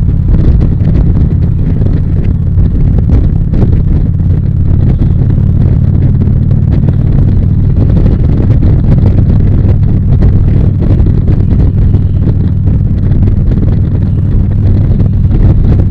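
Harley-Davidson V-twin motorcycle engine running steadily at cruising speed, with wind rush over the microphone.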